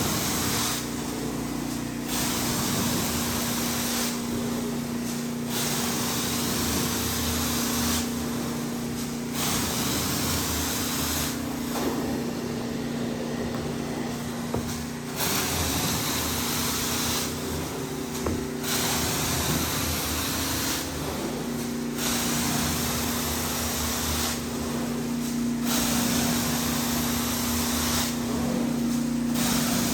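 Hot water carpet extraction: the machine's steady hum runs under the hiss of the cleaning wand's spray and suction, which cuts out and comes back every two to four seconds as the wand is worked across the carpet in strokes.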